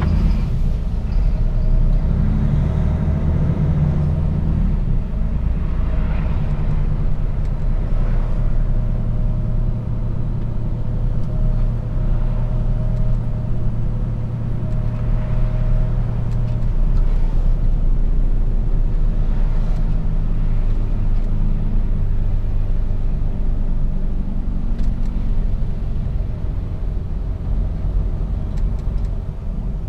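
Mercedes-Benz Actros truck engine running under way with steady road rumble, heard from inside the cab. The engine note shifts a couple of times as the truck changes speed.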